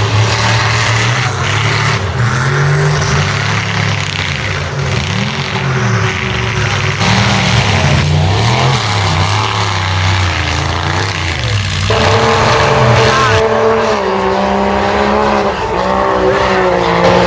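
Mega mud truck engine revving hard, its pitch rising and falling again and again as the throttle is worked, with another engine running steadily alongside.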